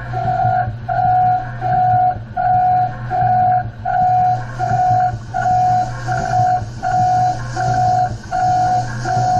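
Electronic beeping: one steady tone sounding in even pulses, a little under two a second, over a low steady machine hum.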